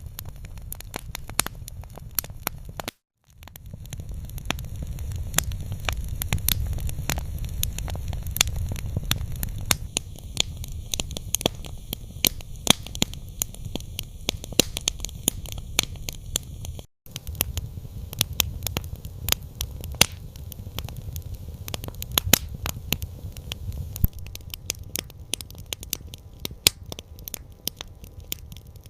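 Campfire crackling, with many sharp pops and snaps over a steady low rumble; the sound cuts out briefly twice, about three seconds in and again past the middle.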